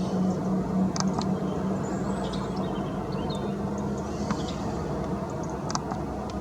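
Steady outdoor background rumble like distant traffic, with a low hum that fades out about halfway through. Short, high chirps and small birds' calls come every second or so.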